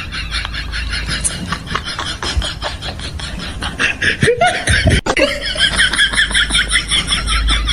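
People laughing in a fast, repeated run of short breathy pulses, with a few brief sliding vocal sounds about halfway through.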